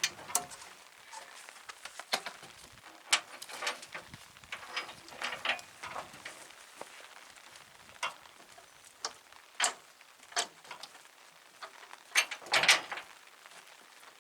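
Irregular knocks and clicks of gear being handled, with a louder clatter of knocks near the end.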